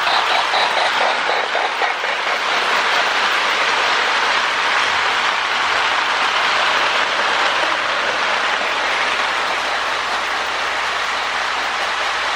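Lionel MPC-era Union Pacific Berkshire O-gauge locomotive running on its track. Its original sound board gives a steam chuff paced to the engine's speed: distinct chuffs about four or five a second at first, then a steady rushing hiss. Motor and wheel noise run underneath.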